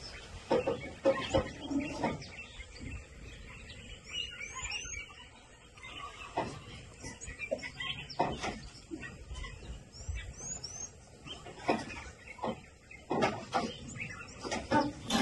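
Small birds chirping: two quick runs of high, rising chirps, about four seconds in and again about ten seconds in, over irregular clicks and knocks.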